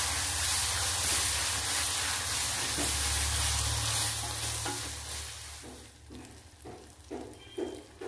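Chopped tomato and onion masala sizzling in hot oil in a wok while a wooden spatula stirs it, the sauté stage of a clam roast masala. The sizzle fades out about two-thirds of the way in, leaving a few soft knocks and scrapes.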